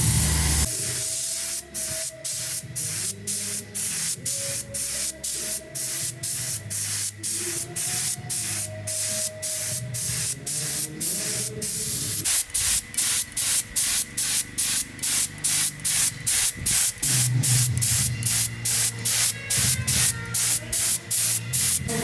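Hissing spray broken into rapid short bursts, about two a second and quickening to about three a second partway through, with soft background music underneath.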